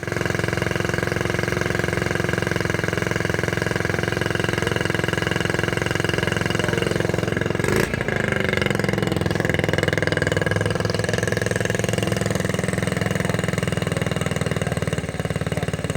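A vehicle engine idling steadily, with a brief change about eight seconds in.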